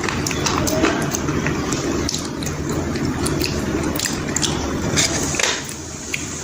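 Slate pencils coated in paste being bitten and chewed: irregular crisp crunches and clicks, over a steady low background hum.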